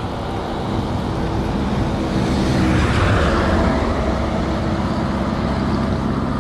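Road traffic: a motor vehicle's engine runs steadily, and a passing vehicle swells to its loudest about three seconds in and then fades.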